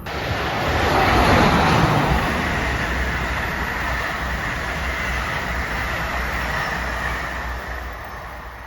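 A train passing on the track: a loud rush of wheels on rail that comes in suddenly, peaks about a second in, holds steady, and eases off near the end.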